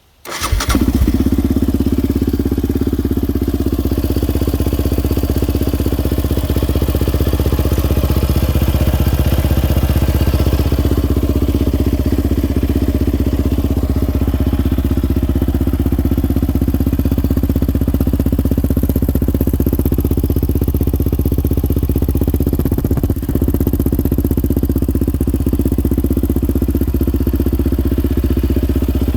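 2019 Yamaha Raptor 700R's single-cylinder four-stroke engine, breathing through a Curtis Sparks aftermarket exhaust, starts up right at the beginning and then idles steadily.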